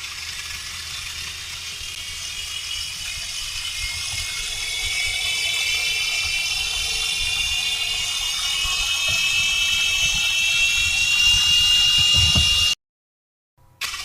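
Small electric motor of a toy car whining as it runs along a plastic track, with the car rattling on the track pieces. The whine slowly rises in pitch and grows louder, cuts off abruptly about a second before the end, then starts again.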